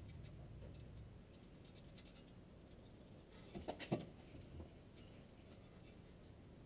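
Near silence, with a short cluster of faint clicks and scrapes about three and a half to four seconds in.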